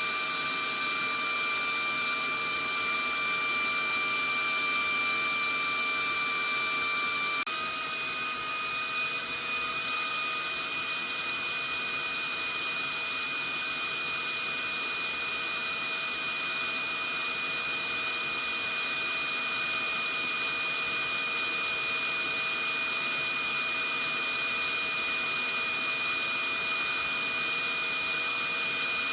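Vacuum cleaner motor running steadily: a constant airy rush with a high, steady whine. About seven seconds in, the whine steps slightly higher in pitch and the sound gets a little louder for a few seconds before settling.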